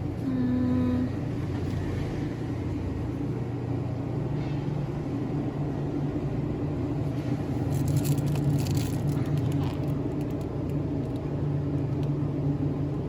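Steady low hum of convenience-store ambience, with a short electronic beep about half a second in and a brief crackle of rustling around the middle.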